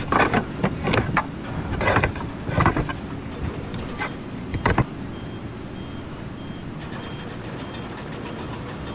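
A vehicle or machine running with a steady rumble, with several loud knocks in the first five seconds and then a faint high beep repeating about twice a second.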